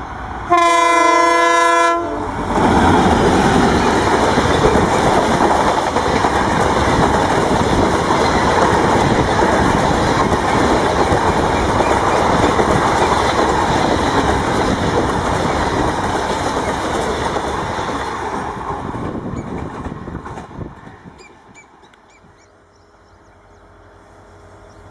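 WDG-4 (EMD GT46MAC) diesel locomotive sounding its horn in one blast of about a second and a half, then an express train passing close by at speed with loud wheel-on-rail noise. The noise fades away near the end.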